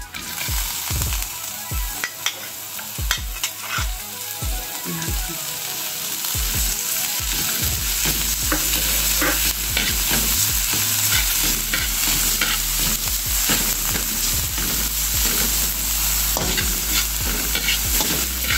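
Chopped onion, garlic and ginger sizzling in hot oil in a wok, stirred and scraped with a steel wok spatula, with sharp taps and scrapes of metal on the pan. The sizzling grows louder about halfway through.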